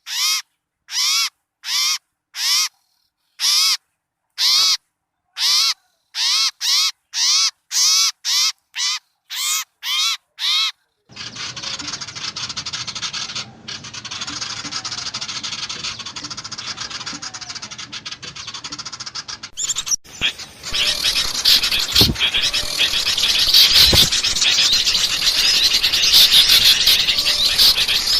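Bird-lure playback of small birds: a harsh call is repeated about once or twice a second with clean silent gaps between calls, then the track cuts abruptly to a dense, noisy chatter of many birds, which gets louder and fuller about twenty seconds in.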